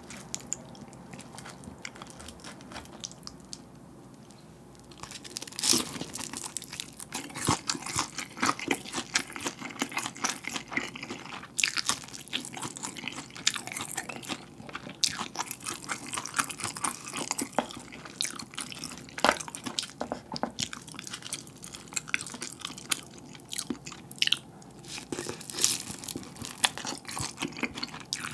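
Close-miked chewing of a deep-fried gimmari (seaweed-wrapped glass-noodle roll) in tteokbokki sauce. Soft mouth sounds at first, then from about five seconds in a dense run of crisp crunches and wet chews.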